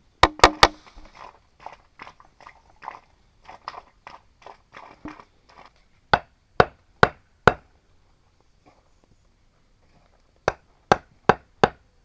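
Sharp blows of a tool on bamboo. Three come in quick succession right at the start, followed by lighter scattered taps. Then come two runs of four evenly spaced strikes, about half a second apart, one in the middle and one near the end.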